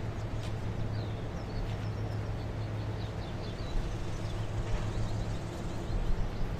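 Steady low mechanical hum, like an idling engine, under an even background noise, with short high bird chirps scattered through it.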